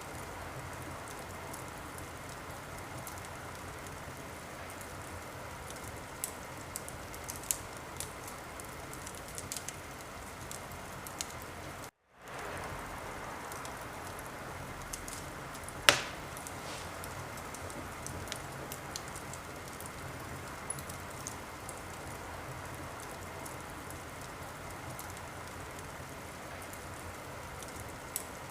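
Wood fire in a fireplace crackling steadily, with scattered small snaps and one loud, sharp pop about sixteen seconds in. The sound cuts out briefly about twelve seconds in, then fades back in.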